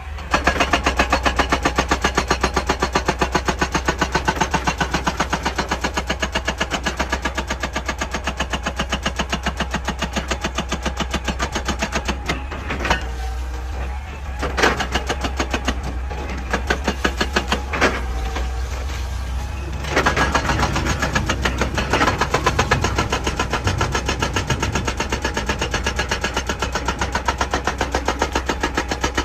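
Excavator at work on rock: a fast, even pounding rhythm over a steady low engine hum, with several louder knocks and cracks in the middle.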